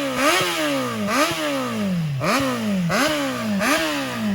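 Motorcycle engine revved in a quick series of throttle blips, about one every half-second or so. Each rev jumps up sharply and falls straight back.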